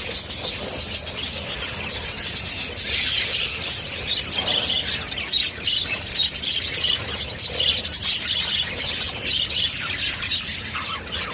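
Many small birds chirping over one another in a dense, continuous chatter of short high calls.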